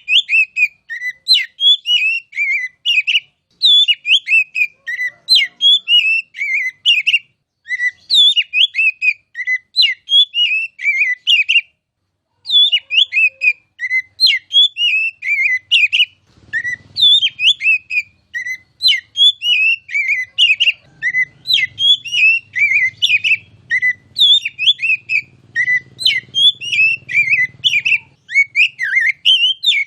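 Oriental magpie-robin (kacer) singing without a break: quick, loud whistled notes and sweeps in rapidly repeated phrases, pausing briefly about twelve seconds in.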